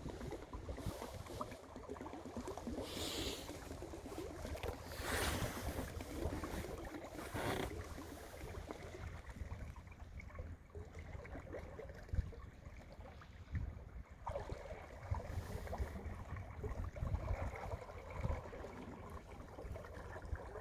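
Water swishing and splashing along the hull of an LM22 sailboat under way, over a low rumble of wind on the microphone. Louder washes come about three, five and seven and a half seconds in.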